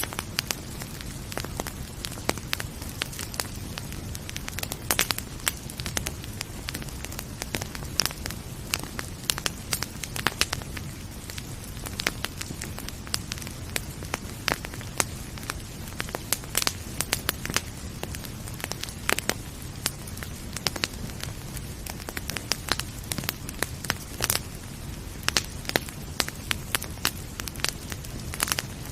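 Wood fire crackling in a fireplace: irregular sharp pops and snaps, several a second, over a steady low rumble of flames, with a soft hiss of gentle rain beneath.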